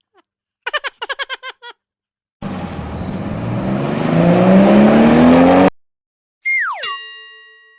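Cartoon sound effect of a car engine revving up, rising in pitch and getting louder for about three seconds, then cutting off suddenly. It is preceded by a brief chirpy cartoon voice and followed by a quick falling whistle that ends in a fading ringing chime.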